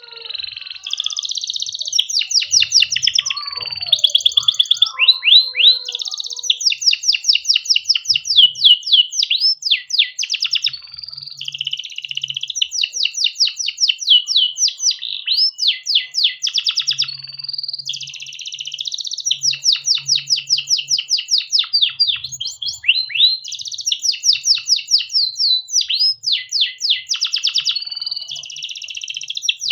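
Domestic canary singing a long, unbroken song of fast trills and rolls, one rapid run of repeated notes leading straight into the next.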